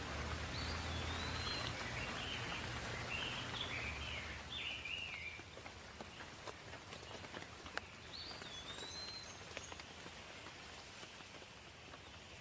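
Light rain falling as a steady hiss, with scattered individual drops striking a surface. A small bird chirps a quick run of short calls in the first few seconds and again briefly about eight seconds in, over a faint low hum that fades after about five seconds.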